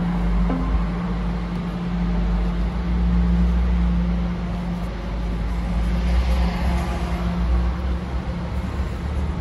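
BMW M5 Competition's twin-turbo V8 idling at a steady, unchanging pitch, heard from inside the cabin as a low hum.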